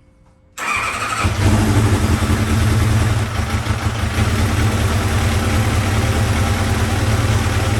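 Motorcycle engine starting about half a second in, then running steadily at idle. The owner suspects a vacuum leak is upsetting how it runs.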